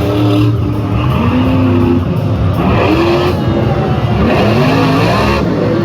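Monster truck engines revving hard, the pitch climbing and dropping several times as the trucks throttle up and back off.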